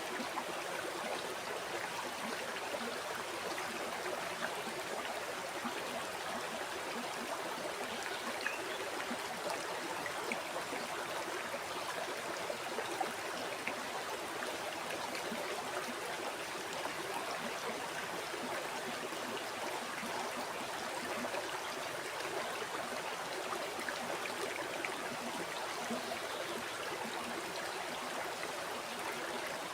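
A river flowing over rocks, a steady rushing and babbling of water with small splashes and trickles.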